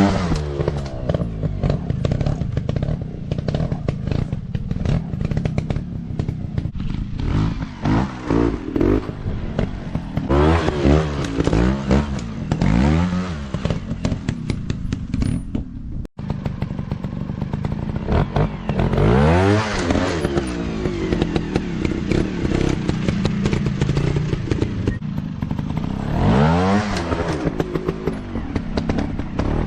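Dirt bike engines revving up and falling back again and again, with some clattering, as off-road motorcycles ride a motocross practice track. The sound cuts out for an instant about halfway through.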